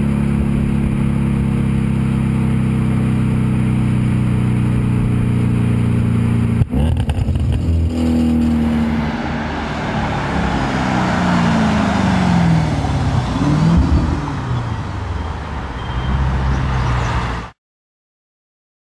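Audi S5 engine through a STaSIS cat-back exhaust, holding a steady drone for several seconds. After a sharp click about seven seconds in, the exhaust note falls and rises in pitch several times as the revs change, over growing road noise, then cuts off abruptly near the end.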